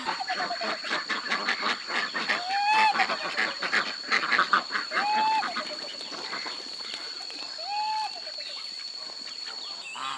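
Domestic fowl calling: rapid, busy chatter with three drawn-out arching calls, over a steady high-pitched whine that stops near the end.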